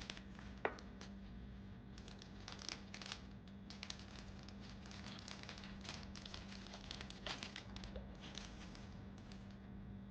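Intermittent crinkling and crackling of something being handled, a scatter of small clicks, over a steady low hum.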